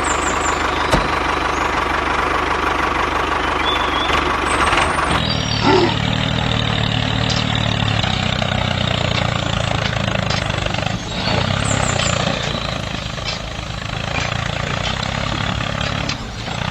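Miniature DIY tractor-driven shredder machine running steadily. Its note changes suddenly about five seconds in, taking on a deeper steady hum.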